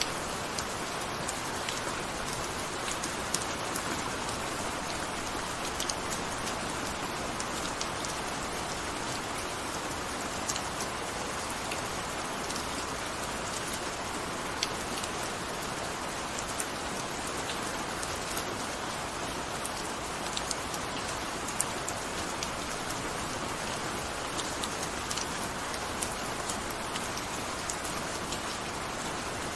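Steady gentle rain falling, a constant hiss with scattered individual drops ticking sharply on a surface.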